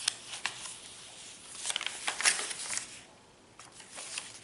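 Paper and card rustling with small clicks and taps as the pages and tags of a handmade junk journal are handled, busiest about two seconds in.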